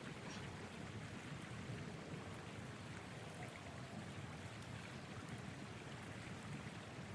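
Blizzard wind blowing steadily, a low, even rumble with a few faint light ticks.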